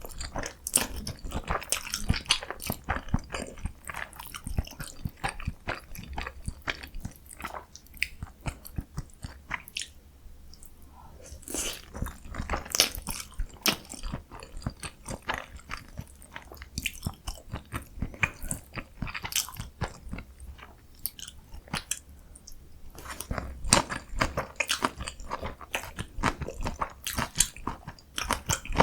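Close-miked eating of jjajang ramyun, green onion kimchi and kimchi dumplings: a person chewing and biting, a dense run of sharp mouth clicks that eases off briefly about ten seconds in and again a little past twenty seconds.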